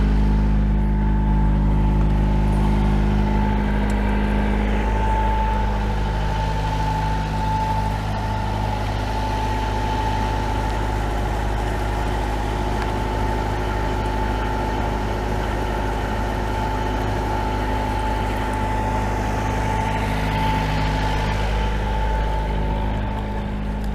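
Perkins 4-108 four-cylinder marine diesel engine running steadily, a low even drone with a thin steady tone riding above it.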